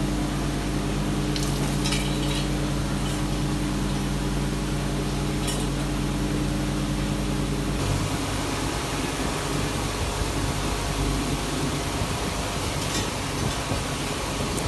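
Workshop machinery running with a steady hum, with a few light metallic clinks. About eight seconds in, the hum stops and a rougher rumbling noise carries on.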